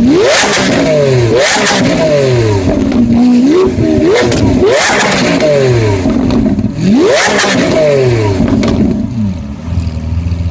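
Lamborghini Aventador's 6.5-litre V12 through a Supersprint exhaust, revved hard several times. Each rev shoots up sharply and falls back with crackling and popping from the exhaust on the overrun, and the engine settles to a steady idle near the end.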